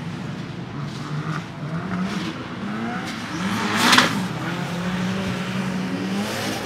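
Drift-prepared Mazda Miata's engine revving as it drifts, its pitch rising and falling repeatedly, with a short sharp burst of noise about four seconds in, the loudest moment.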